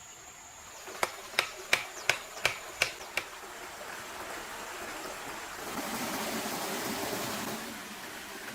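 A quick series of seven sharp knocks, about three a second, then a swelling rushing noise like running water that eases off near the end.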